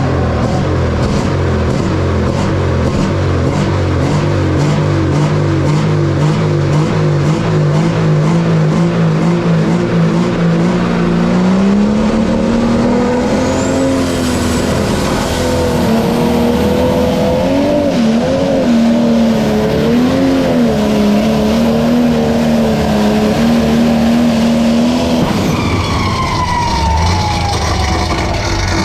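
Pulling tractor's engine running at full throttle under load. Its pitch climbs about a third of the way in and wavers up and down, then drops away near the end, leaving a falling whine.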